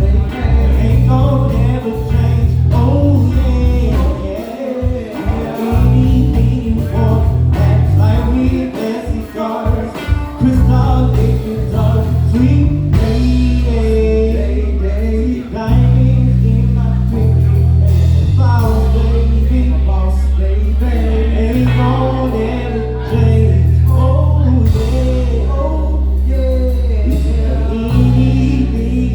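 A live band plays a song with a singer over it: held electric bass notes that change every second or two, with drums and keys.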